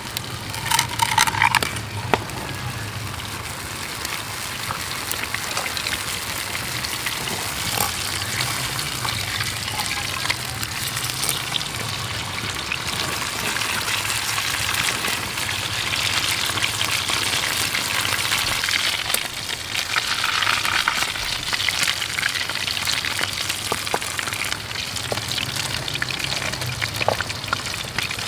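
Food frying in a pan with a steady crackling sizzle, over the constant rush of a creek. A brief, loud high-pitched sound comes about a second in.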